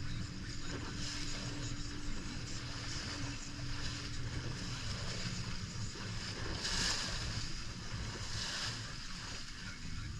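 Boat motor running with a steady low hum, with wind and water rushing around it; two louder rushes of water and wind come about 7 and 8.5 seconds in.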